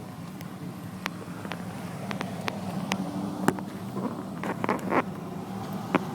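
Car driving slowly, heard from inside the cabin: a steady low hum with scattered sharp clicks and ticks, several bunched together about four to five seconds in.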